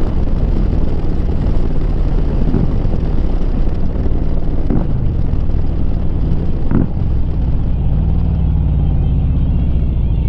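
Harley-Davidson V-twin with a Rinehart exhaust running at a steady cruise, a deep low rumble, with wind noise over the helmet microphone and a few brief sharp sounds along the way.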